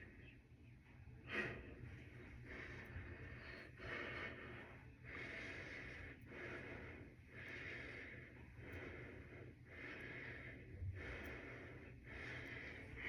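A person breathing in a steady rhythm, about one breath a second, over a faint low hum.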